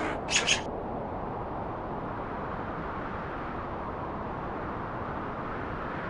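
Two short, harsh calls in the first half second, then steady outdoor background noise, a low even rumble with no distinct events.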